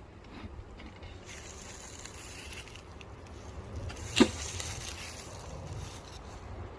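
Honey bees buzzing around an opened hive, over a low rumble of wind on the microphone, with one sharp click or knock about four seconds in.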